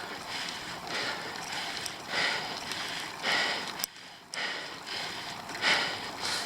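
A cyclist's hard, rhythmic breathing, a forceful breath about once a second, from the strain of pedalling up a steep climb.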